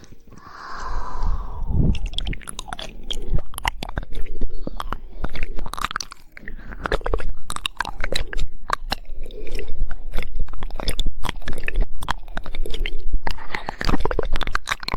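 Close-miked ASMR mouth sounds: rapid, irregular wet tongue clicks and mouth smacks, the fast 'woodpecker' tongue clicking. The clicking starts about two seconds in after a softer hiss.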